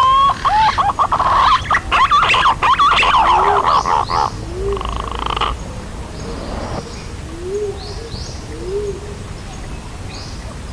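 Green pigeon (punai) calls from a lure recording: a rapid run of rising, warbling whistles for roughly the first five seconds, then several short, low, soft notes about a second apart.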